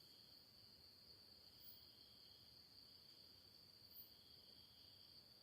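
Near silence with a faint, steady, high-pitched trill of crickets.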